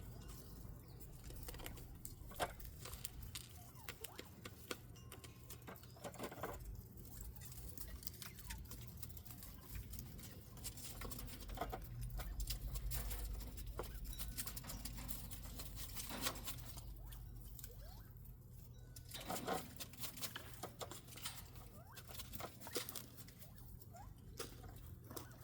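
Bobwhite quail moving about and pecking in the aviary: faint, irregular light clicks, scratches and rustles.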